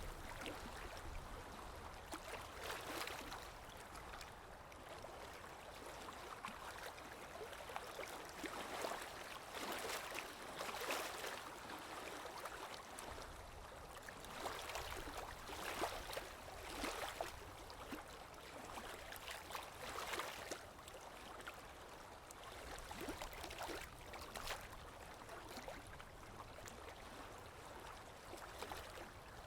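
Small waves lapping and washing on the shore, with soft swells of water noise every second or two.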